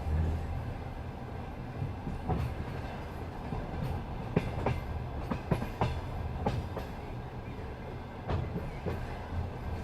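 Passenger train wheels running over the rails, with a steady low rumble and irregular sharp clicks and knocks as the wheels strike the rail joints.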